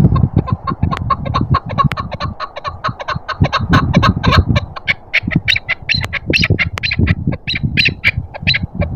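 Chukar partridge calling a rapid run of clucking 'chuk' notes, about six a second, the notes turning higher and sharper in the second half, over a low rumble of wind on the microphone.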